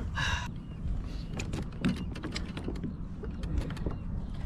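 Scattered light knocks and clicks from handling a landed fish and gear in a kayak, over a steady low rumble, with a short high squeak near the start.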